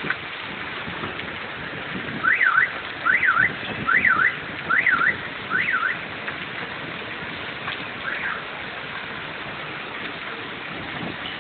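Hail and rain coming down in a steady hiss. A car alarm cuts through with five quick rising-and-falling whoops a little after two seconds in, then one fainter whoop a couple of seconds later.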